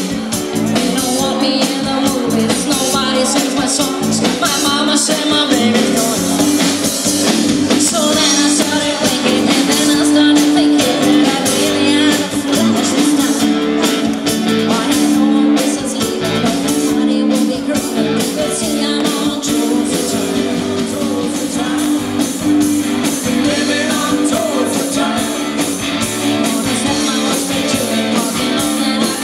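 Live rock band playing with a singer: electric guitars, bass and drums.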